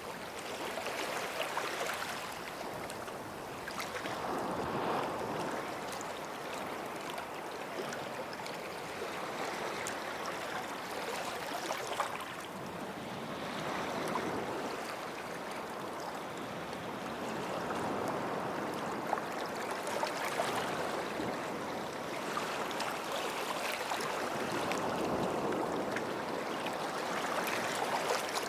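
Gentle sea waves washing up a sandy shore and drawing back, the wash swelling and fading every several seconds.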